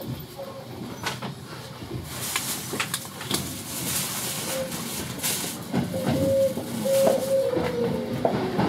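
Sounds of a Sanyo 5000 series electric train car heard from inside: clicks and rattles over a steady hum, growing louder in the second half, with a thin tone coming and going near the end.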